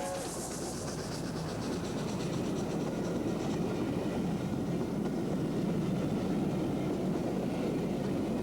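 An LNER A4 Pacific steam locomotive running past with its train, a steady rumble of exhaust and wheels on the rails that grows slightly louder. Its three-note chime whistle cuts off right at the start.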